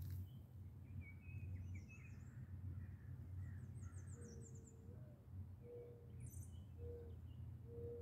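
Small birds chirping, with a brief rapid high trill near the middle, over a steady low rumble. In the second half, four short low hooting notes sound, the first one longer.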